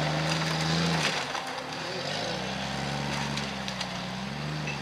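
Off-road 4x4 engine working through deep mud, held at steady high revs, easing off about a second in, then revving up again.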